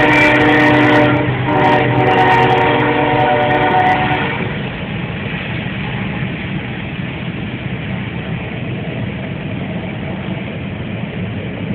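Freight train locomotive horn sounding a chord, breaking off about a second in, then a second longer blast that stops about four seconds in. After that comes the steady rumble of the passing train.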